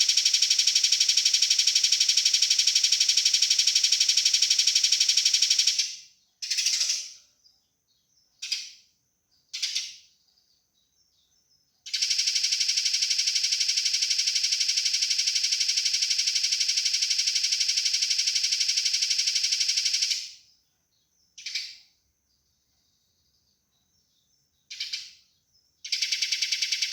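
Eurasian tree sparrow fighting chatter: long, very fast, even rasping trills lasting several seconds, with short single calls in the pauses between them. A new trill starts near the end.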